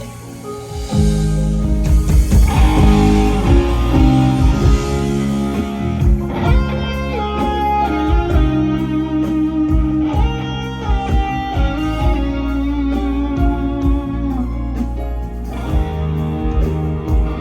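Live band playing an instrumental passage during a stage sound check: an electric guitar carries a melody with bent notes over a steady bass line.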